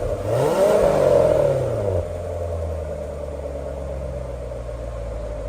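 2017 Corvette Stingray's 6.2-litre LT1 V8 through its stock active exhaust in touring mode: one throttle blip that rises and falls over about two seconds, then settles to a steady idle.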